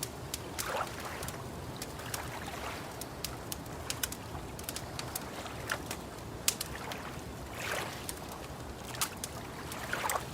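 Wood fire crackling, with sharp pops several times a second over a steady low hiss, and a few soft washes like lake water lapping.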